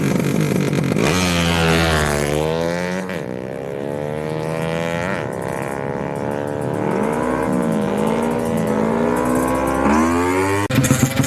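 Motorcycle engine revved hard while standing, its pitch sweeping up and falling back again and again. The sound changes abruptly near the end.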